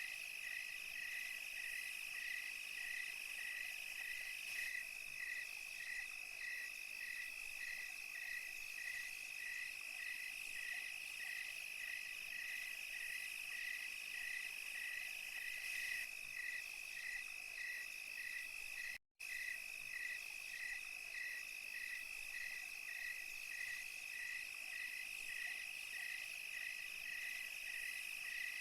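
Night insect chorus: crickets chirping evenly about twice a second over a steady high trill and a high hiss of other insects such as cicadas. The sound cuts out completely for a split second about two-thirds of the way through, then carries on unchanged.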